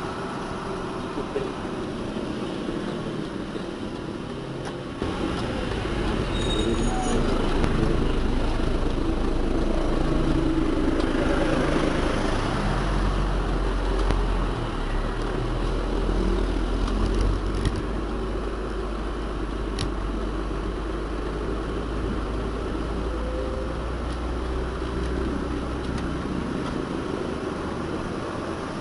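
Heavy diesel engine running with a deep rumble that becomes suddenly louder about five seconds in and eases somewhat after about seventeen seconds.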